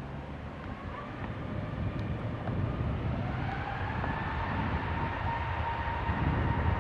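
Airbus A320neo's CFM LEAP-1A jet engines running, with a low rumble and a whine that rises in pitch from about two and a half seconds in and then holds steady as the sound grows slightly louder.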